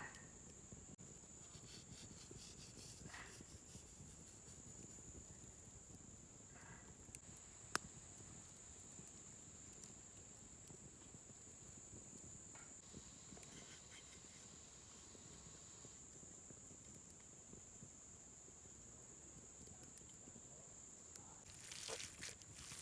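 Faint outdoor ambience with a steady high-pitched drone of insects such as crickets. A single sharp click comes about eight seconds in, and a patch of rustling and clicking starts near the end.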